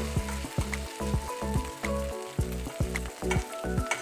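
Shredded cabbage and egg fritters sizzling as they fry in oil in a stainless steel pan, with a metal spatula scraping and turning them. Background music with changing pitched notes plays along with it.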